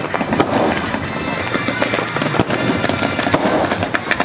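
Aerial fireworks bursting and crackling close overhead in a dense stream of sharp cracks, with one louder bang about two and a half seconds in. Music plays underneath.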